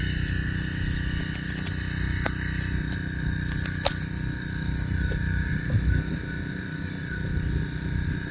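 Gas-engine pressure washer running steadily while spraying through a rotary turbo nozzle onto an animal hide, with a couple of sharp clicks about two and four seconds in.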